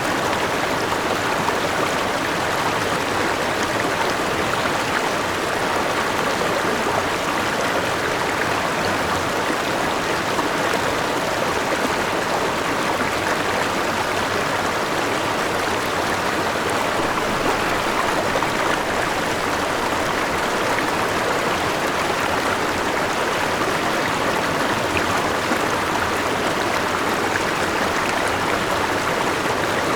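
Forest river with a small waterfall: water rushing and splashing over rocks, a steady, even flow.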